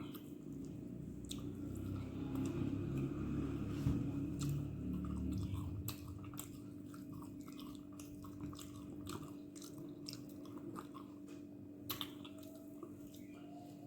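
A person chewing and biting mouthfuls of dosa with chutney and kuzhambu close to the microphone, with many small wet mouth clicks. The chewing is fuller and louder in the first half.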